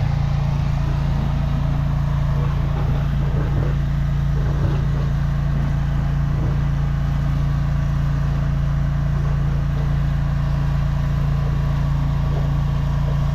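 High-pressure drain jetter's engine and pump running steadily at a constant pitch while it drives the jetting nozzle through the sewer line.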